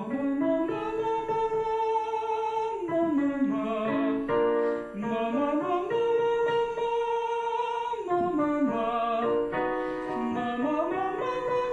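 A singer's head voice in a warm-up exercise: the voice slides up to a high note, holds it for a couple of seconds, then steps back down the scale, three times over.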